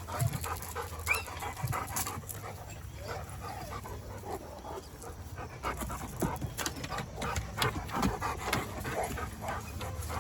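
Boerboel dogs panting and moving about, with a short high whine about a second in.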